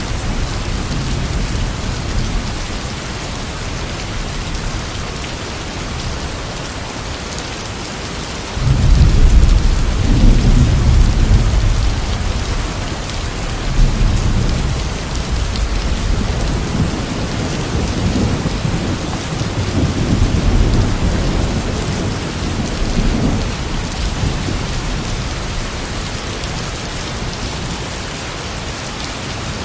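Steady heavy rain with rolling thunder. A deep thunder rumble breaks in suddenly about a third of the way through, is the loudest part, and swells again in several further rolls before fading back under the rain.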